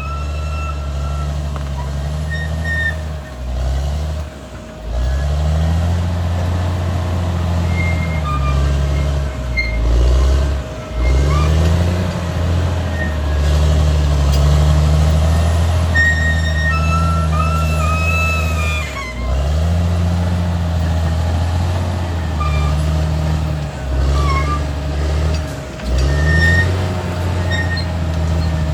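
Caterpillar D6R XL bulldozer's diesel engine working hard, its note sagging and picking up again every few seconds as the blade loads and unloads. Short high squeals come and go, the loudest near the middle.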